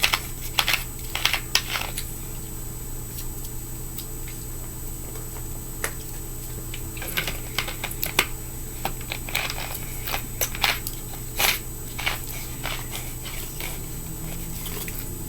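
Scattered small clicks and taps of fingerboard parts and a small tool being handled, irregular and sharp, over a steady low hum.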